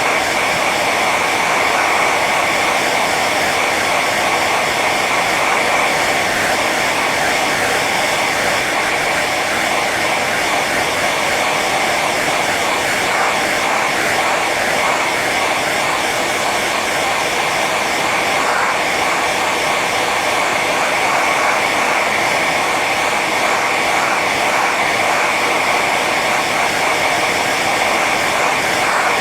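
Electric hair dryer running on its high setting: a steady rush of blown air with a constant whine near the top, unchanging throughout.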